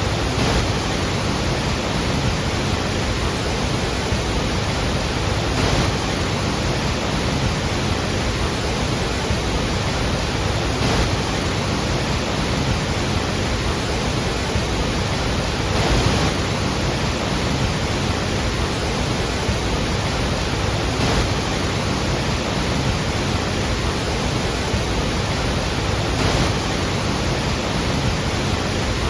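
Large waterfall: a heavy, steady rush of falling water, with a slight surge about every five seconds.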